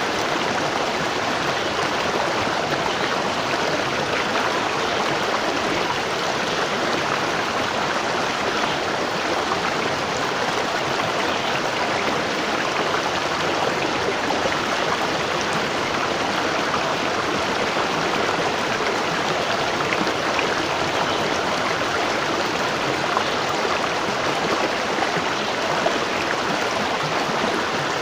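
A waterfall's water falling and splashing, a steady even rush of white-noise-like sound with no changes.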